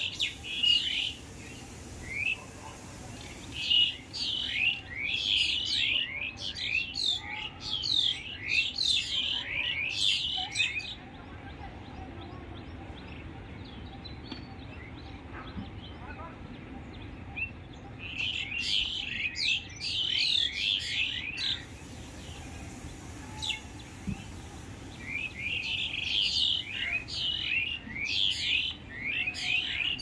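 Small birds chirping in fast runs of short, sharp chirps, in three long bouts with pauses of several seconds between them, over a faint steady background hiss.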